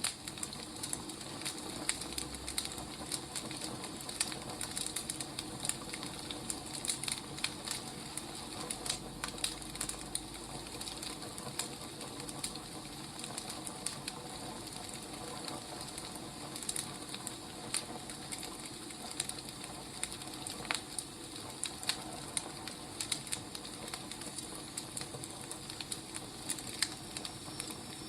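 Wood fire crackling: a steady hiss with irregular pops and snaps.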